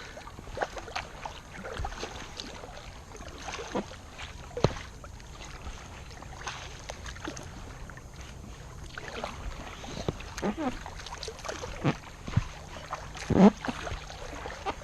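Punctured, half-deflated inflatable vinyl raft being paddled on a pond: irregular paddle splashes and knocks against the boat, with a few short squeaks.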